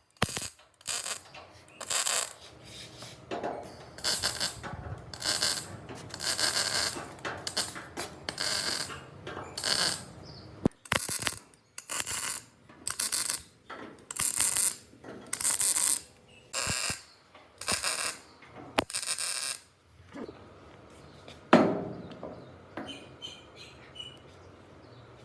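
A run of short scraping or rasping strokes, about one a second, with a few sharp knocks among them and a louder one near the end.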